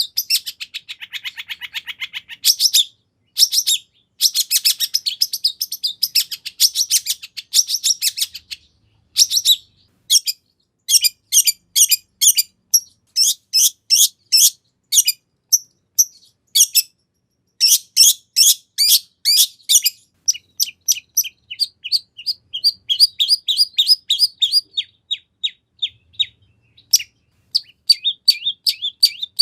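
Long-tailed shrike singing a fast, varied, high-pitched song: rapid runs of short chirps and trills with brief pauses, packed with mimicked calls of other birds.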